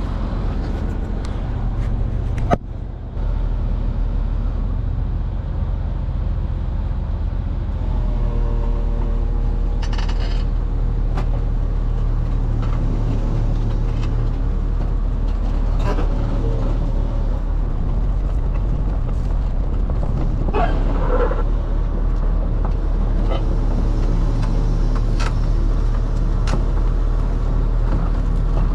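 Kobelco 210 excavator's diesel engine running steadily, getting louder about eight seconds in as it works, with a sharp click early and scattered metallic clanks and squeals.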